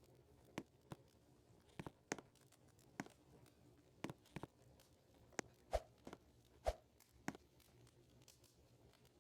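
Faint footsteps crunching on dry leaves and twigs: about a dozen irregular crunches and snaps over some seven seconds, a couple with a dull thud, then they stop.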